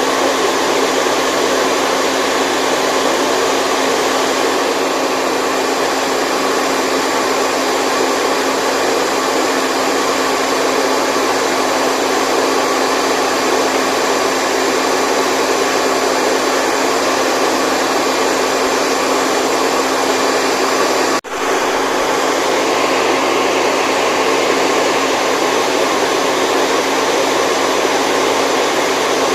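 Steady white noise, a continuous rushing hiss with a faint steady hum in it, broken by one brief dropout about 21 seconds in, after which it quickly returns.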